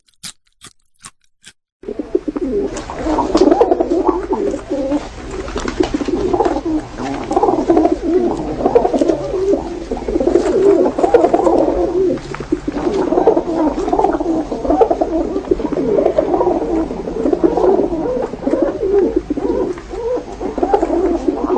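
Feral pigeons cooing over and over, calls overlapping without a break, after a few short clicks in the first second and a half.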